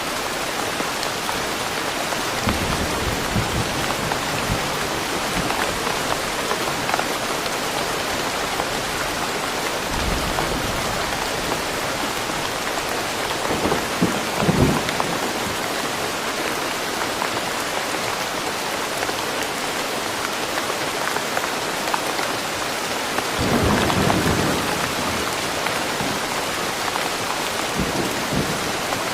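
Steady rain falling in a forest, an even hiss throughout. A few brief low rumbles rise above it, the longest about two-thirds of the way through.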